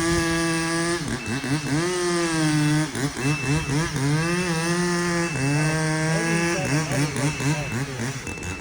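Heavy-equipment engine running and changing speed, its pitch rising and falling again and again. A backup alarm beeps steadily about once a second over it.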